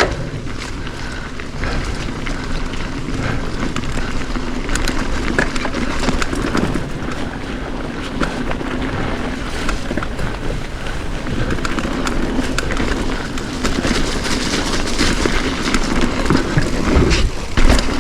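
Wind buffeting the microphone and tyre noise on a wet trail while riding, with scattered clicks and rattles, growing louder toward the end.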